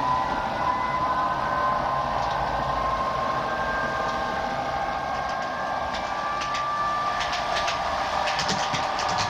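OO gauge model train running: the locomotive's small electric motor gives a steady whine that drifts slightly in pitch, and from about six seconds in the wheels click over rail joints and points.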